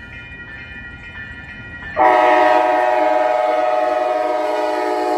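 Horn of an Amtrak Siemens ALC-42 Charger locomotive sounding one long, loud blast that starts about two seconds in, after fainter steady high tones.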